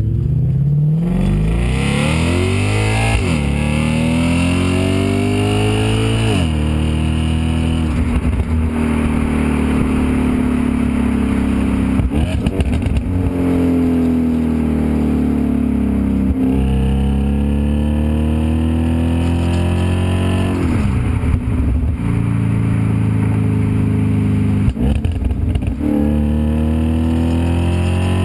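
Audi S5 engine through a STaSIS cat-back exhaust, pulling hard with its pitch rising, then dropping sharply at each gear change, several times over.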